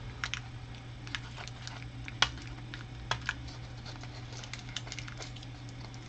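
Loose plastic Lego pieces clicking against each other as they are handled, in irregular small clicks with one sharper click about two seconds in, over a steady low hum.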